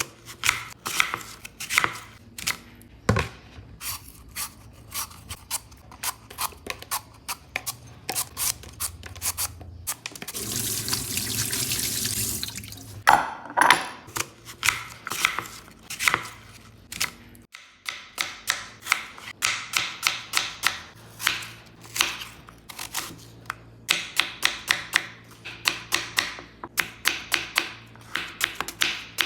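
Water running from a tap for about two and a half seconds, among many short, sharp kitchen clicks and knocks. The clicks come in quick runs in the second half.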